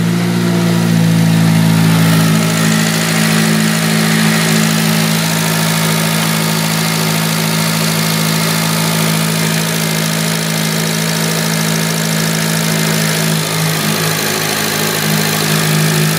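Honda Civic FN2 Type R's 2.0-litre four-cylinder engine idling steadily, just started after its idle air control valve was replaced, the idle settling in the first second.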